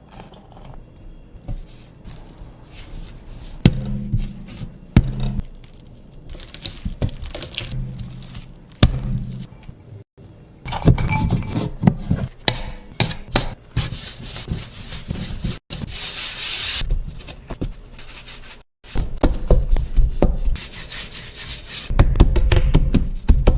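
Bread-making handling sounds in several short cut-together takes: dough and utensils rubbing and scraping, with scattered knocks and dull thuds on a work surface.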